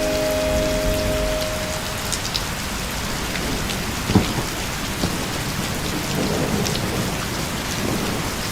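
Steady rain falling, with scattered sharp drop ticks. A held musical chord fades out in the first two seconds, and a low rumble rises near the end.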